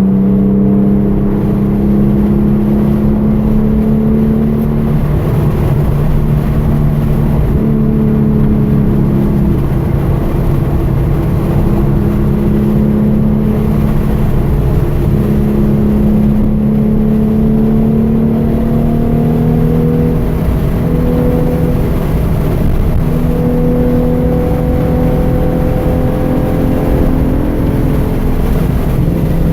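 2013 Hyundai Genesis Coupe's 3.8-litre V6 engine under hard driving on a race track, its pitch repeatedly climbing, dropping and stepping as it accelerates, shifts and lifts.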